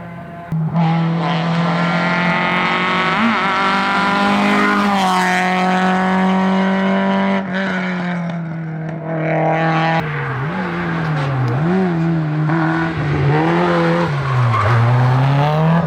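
Citroën Saxo VTS hillclimb cars' four-cylinder engines running at high revs. For the first part the engine note holds high and steady under full throttle. About ten seconds in, a second Saxo takes over, its note rising and falling repeatedly through gear changes and lifts.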